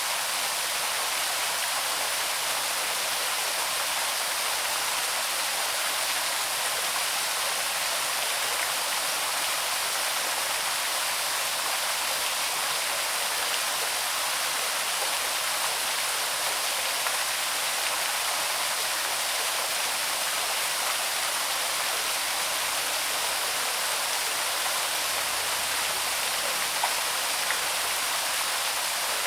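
Small waterfall on a woodland stream, water spilling and splashing in a steady rush.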